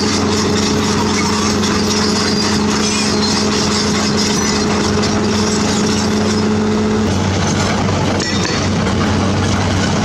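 Heavy diesel construction machine engine running loud and steady under work, its pitch dropping about seven seconds in as the engine slows.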